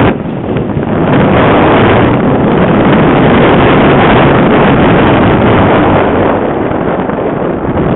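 Strong, gusty wind buffeting the microphone, a loud rushing noise that eases briefly at the start.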